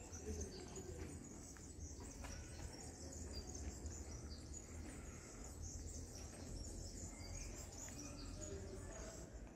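Small birds chirping repeatedly in short calls over a low, steady rumble of outdoor ambience.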